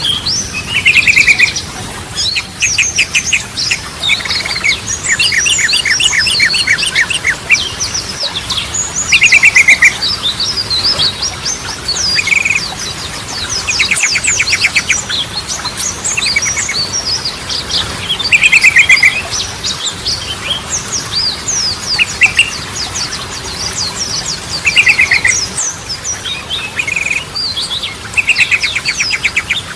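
Yellow-vented bulbul (trucukan) singing in a lively run of bubbly whistled phrases. Quick stuttering trills recur every few seconds, mixed with many short, high chirps.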